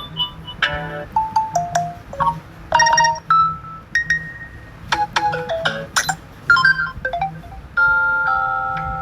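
Samsung Galaxy S24 notification and system sounds playing one after another: a quick series of short electronic chimes and little tone jingles. A longer held chord starts near the end.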